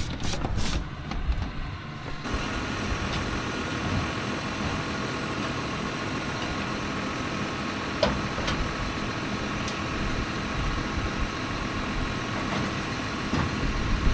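An engine running steadily at a constant speed, with a few knocks in the first two seconds.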